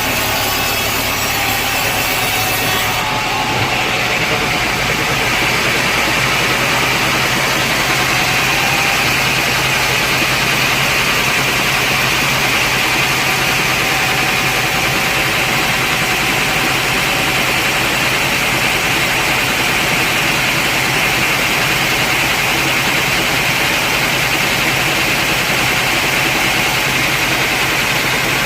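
Sawmill machinery running steadily, a constant engine-like drone with a hiss. The sound shifts slightly about three seconds in, as the highest part of the hiss drops away.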